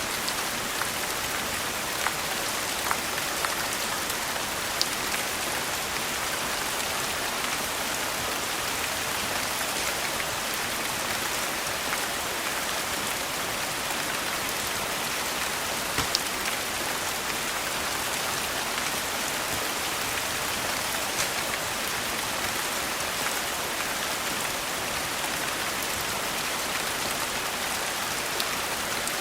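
Steady, even rain hiss, with a few sparse sharp pops from a crackling fireplace.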